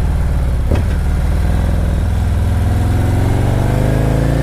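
Harley-Davidson Milwaukee-Eight V-twin engine running under way, its pitch climbing steadily through the second half as it accelerates.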